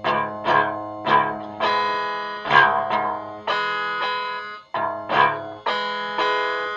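Instrumental break in a song: a guitar plays a riff of repeated picked notes and chords, roughly two strikes a second. It cuts out for a moment about two-thirds of the way through.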